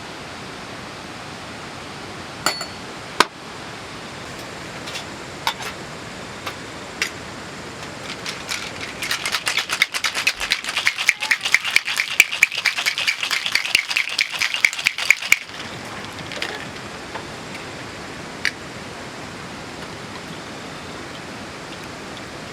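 Food sizzling and crackling in a hot camp cooking pot: a dense run of rapid pops that builds from about eight seconds in and stops around fifteen seconds, over a steady hiss, with a few single clicks before it.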